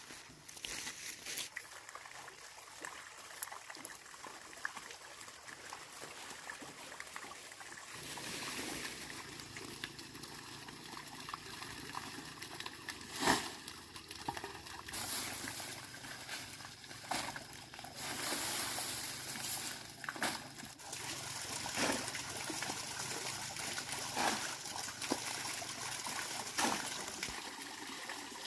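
Water trickling and splashing, growing louder about a third of the way in, with scattered clicks and knocks, one sharper than the rest near the middle.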